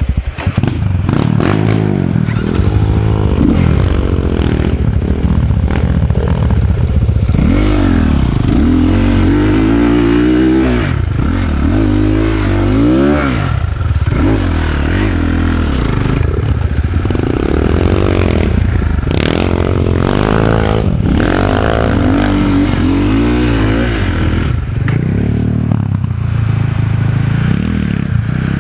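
Enduro dirt bike engine revving up and down over and over, its pitch rising and falling in quick sweeps as the throttle is worked, with some clatter.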